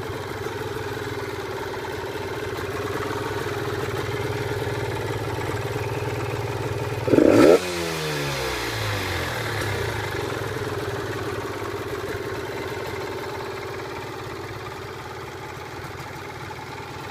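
Swapped-in Yamaha TDR50 two-stroke single-cylinder engine idling steadily, with one sharp throttle blip about seven seconds in, the revs then falling back to idle.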